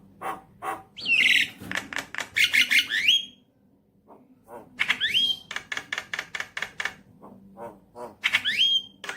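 Javan myna singing: three bouts of rapid clicking chatter with sharp rising whistles, starting about one, five and eight seconds in.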